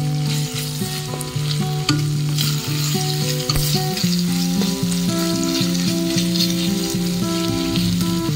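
Shredded chicken pastil frying in oil, sizzling as a wooden spatula stirs it round the pan. A low melody of held notes that step in pitch about every half second runs alongside.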